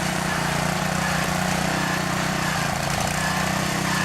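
A large engine running steadily at a constant speed, typical of the heavy equipment digging out the broken water main.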